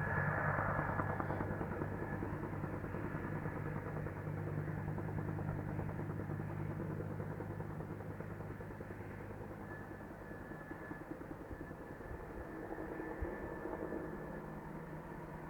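UH-1 Huey helicopter in flight, its rotor chopping in a fast steady beat over a low engine hum. It slowly fades as it flies away.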